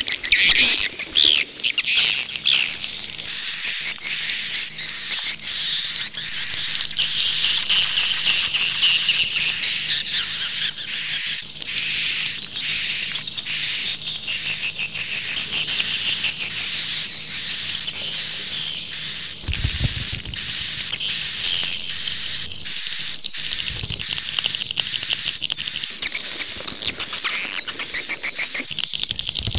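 Swiftlets twittering densely and continuously, high-pitched chirps layered with many short sharp clicks. This is a recorded swiftlet call track, the kind played as a lure sound.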